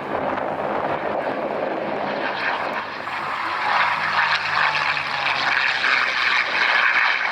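P-51 Mustang diving past, its piston engine droning under a whistle from air rushing through the wing gun ports; the whistle grows louder over the last few seconds.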